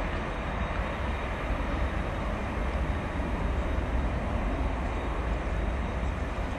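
Boeing 737-800 jet engines running: a steady rushing noise with a strong low rumble and a faint, steady high whine.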